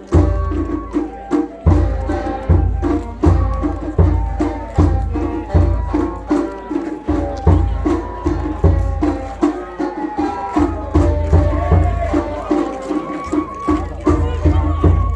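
Japanese festival hayashi from a festival float: taiko drums beating a steady rhythm under a high flute melody.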